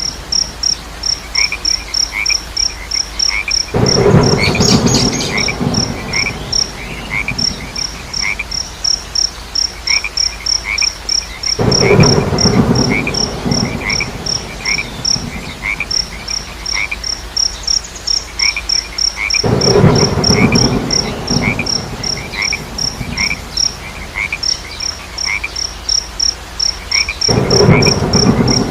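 Frogs croaking in loud bursts about every eight seconds, over a fast, even high chirping of insects and a slower repeated chirp, with a faint hiss of rain underneath.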